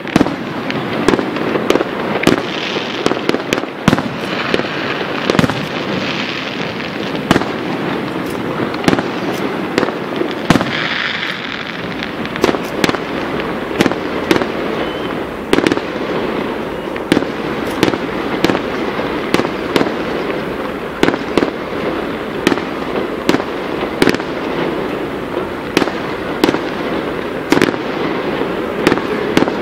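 Fireworks display: aerial shells bursting in a rapid, irregular series of loud bangs, several a second at times, over a continuous noisy wash of crackle.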